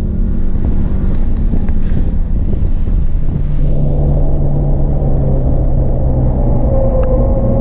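Volkswagen Mk7 GTI's turbocharged 2.0-litre four-cylinder running hard on track, heard inside the cabin over heavy road and tyre rumble. The engine note drops back in the first second, then a steady engine tone returns about halfway through.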